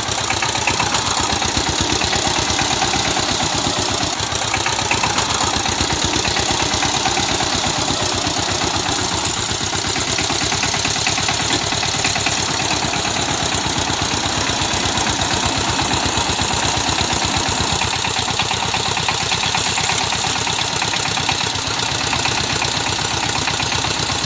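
Power tiller's single-cylinder diesel engine running steadily, a loud, rapid, even chugging.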